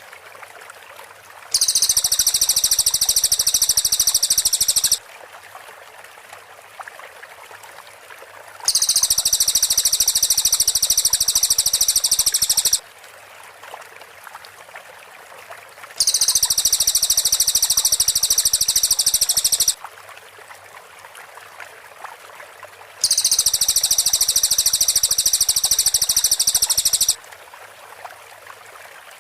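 Cililin song: four bursts of dense, rapid-fire high-pitched notes (the close-set 'tembakan' phrases), each about four seconds long with gaps of about three seconds between, over a steady background hiss.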